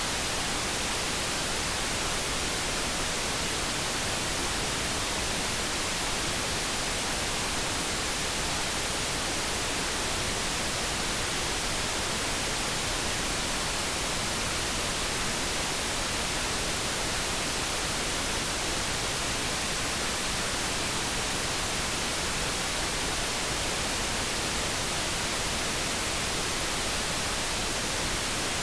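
Steady generated noise: an even, unchanging hiss spread across the whole range, with no tones or breaks.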